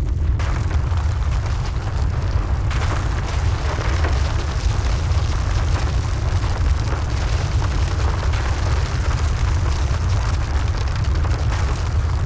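Film sound effect of a big fire and explosion: a steady deep rumble with a roaring haze over it, growing fuller a few seconds in.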